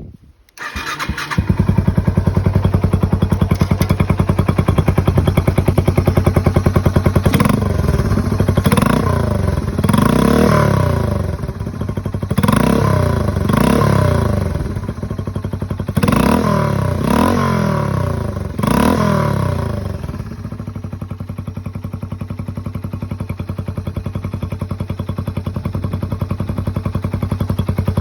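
Yamaha TW200's single-cylinder four-stroke engine breathing through a Wirus Win Sharp aftermarket muffler. It starts about half a second in and settles to a steady idle, then is revved in a series of short throttle blips before dropping back to idle for the rest of the time.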